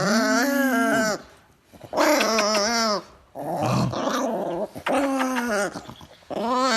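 Dog growling and grumbling in drawn-out, pitched vocal outbursts of about a second each, five in a row with short breaks, typical of an annoyed dog protesting.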